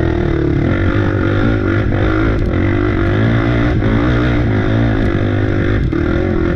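Off-road bike engine running steadily under load on the trail, its pitch wavering a little with the throttle.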